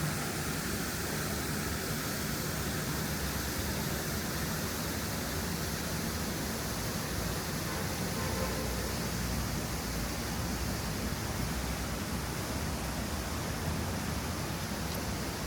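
Steady city street ambience: an even hiss over a low rumble, like distant traffic, with no single event standing out.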